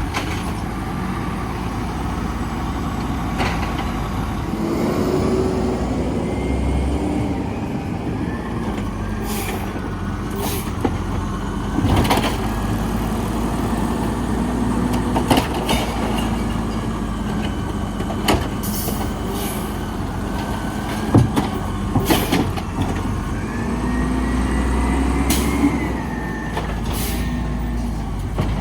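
Garbage truck running with a steady engine rumble, overlaid by wavering whines that rise and fall in stretches and about a dozen sharp knocks and bangs of metal and plastic.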